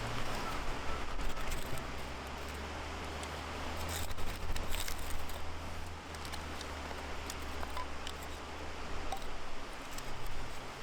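Outdoor ambience with a steady low rumble and scattered small clicks and rustles, a cluster of sharper clicks about four to five seconds in.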